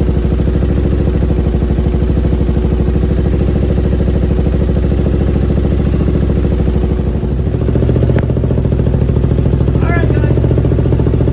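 Carburetted Triumph Thruxton 900 parallel-twin motorcycle engine running steadily at idle, freshly fitted with the correct jets, with the carburettors still needing adjustment. Its note shifts about seven seconds in.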